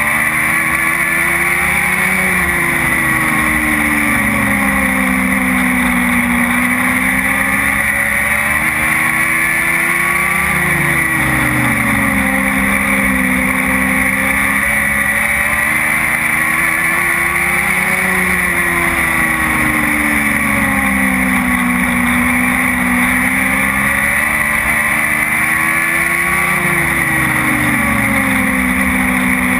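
Dwarf race car engine running hard on a short oval. Its pitch climbs along each straight and falls sharply as the driver lifts for each turn, about once every eight seconds, four times over, with a steady hiss of wind and road noise.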